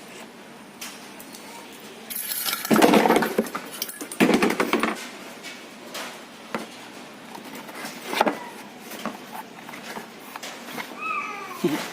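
Metal tools and engine parts clinking and clattering on a workbench, with two louder rattling stretches about two and four seconds in and scattered clicks between.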